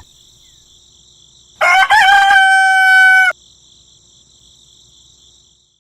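A rooster crowing once: a single call of under two seconds that rises at its start and then holds its pitch.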